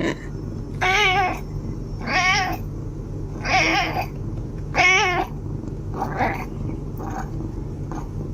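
A domestic cat meowing repeatedly: four loud, drawn-out meows with a wavering pitch about a second and a half apart, then three shorter, fainter ones near the end.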